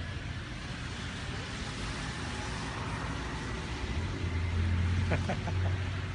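Road traffic noise, with a vehicle's low rumble growing louder about four seconds in.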